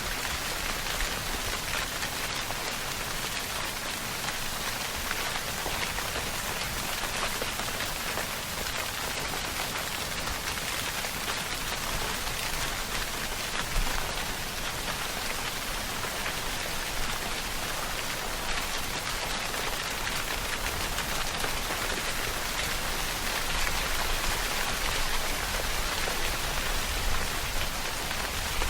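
Steady rainfall: a dense, even hiss of rain with individual drops pattering on a surface.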